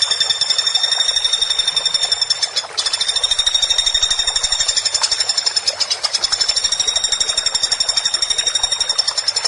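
Woodpecker giving a rapid, continuous rattling call: one high note repeated many times a second, with a brief break about two and a half seconds in.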